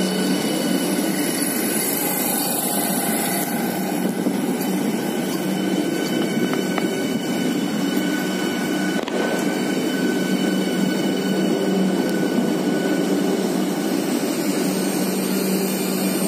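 Train 18 (Vande Bharat) electric multiple unit rolling slowly past the platform: a steady, continuous hum and whine of its running gear and wheels on the rails, with no locomotive engine.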